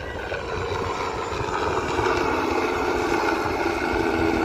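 Helicopter flying overhead, a steady engine and rotor drone that grows slowly louder.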